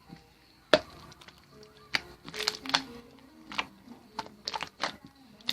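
Irregular sharp clicks and crackles, the loudest about a second in, over faint background music.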